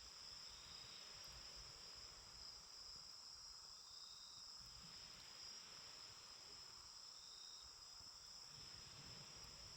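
Faint, steady trilling of crickets, with a short note repeating about every three seconds.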